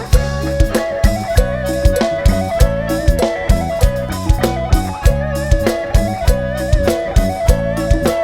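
Live band playing an instrumental passage: a wavering lead melody over a steady, upbeat drum-kit beat and bass, amplified through a PA sound system.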